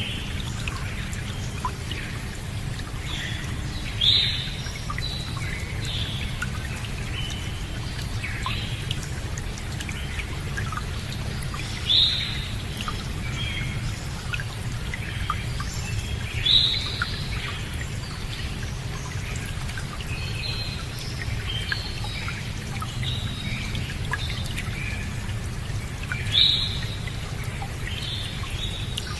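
Birds chirping and calling over a steady rush of flowing water. Four louder calls, each falling in pitch, stand out at roughly 4, 12, 16 and 26 seconds in, with smaller chirps between.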